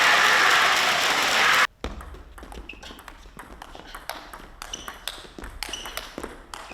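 Loud crowd cheering and applause that cuts off abruptly, then a table tennis rally: the ball clicking sharply off the bats and the table in quick, irregular strokes, some hits leaving a brief high ping.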